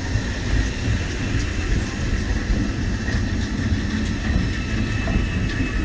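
Mainline electric multiple unit train running on the track: a steady low rumble with a faint, steady high tone above it and a few light ticks.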